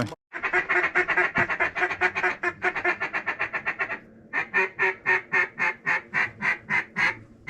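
Mallard duck call blown hard in a blind. A rapid run of short quacks, about eight a second, breaks off about 4 s in, then evenly spaced quacks follow, about four a second: cutting and hail calling to work ducks in.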